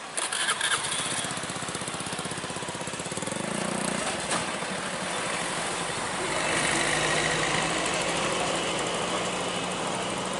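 Truck diesel engine running with an even low pulse, growing louder about six seconds in.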